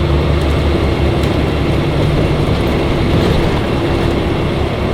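Engine and road noise inside a truck cab at freeway speed, a steady loud drone whose lowest engine note eases about halfway through.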